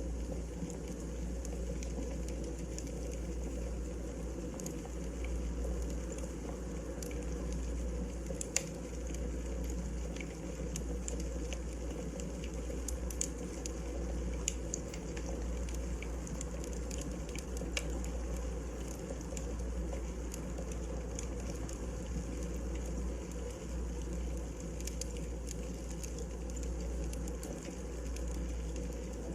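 Wood fire burning in a fireplace: a steady low rumble with scattered sharp crackles and pops of the firewood.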